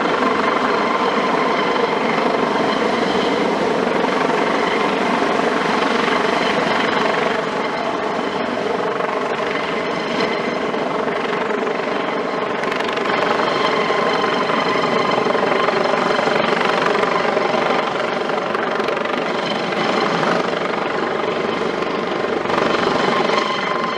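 A Eurocopter AS365 Dauphin twin-engine turboshaft helicopter running steadily, its turbines and rotors making a loud, even sound with a constant whine.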